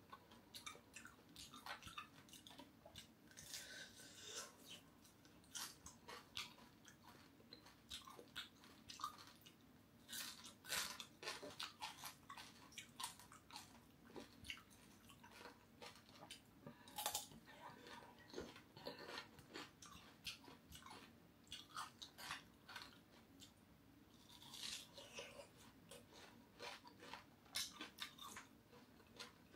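Close-miked eating: chewing and crunching on crispy fried fish belly and cucumber, a steady run of small, sharp crunches and mouth clicks, with a bite of watermelon near the end.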